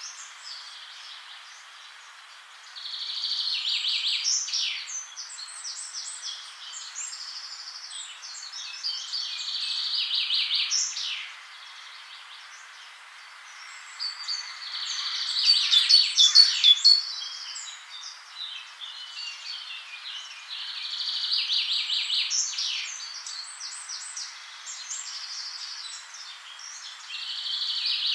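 A songbird singing in the background: phrases of fast repeated chirps and trills, one about every six seconds, the loudest around the middle, over a faint steady hiss.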